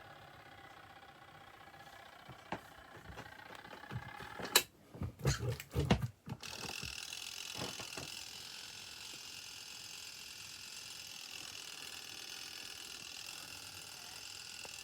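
Mini twin-tub washing machine: a faint motor hum, then a burst of sharp knocks and clatter about four to six seconds in. After that comes a steady rush of running water, as when the tub is filling.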